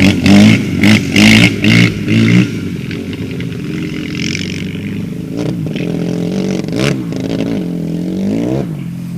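Dirt bike engine revved in quick, sharp throttle blips for the first couple of seconds, then running quieter and steadier with a few rises and falls in revs as it is ridden on the back wheel.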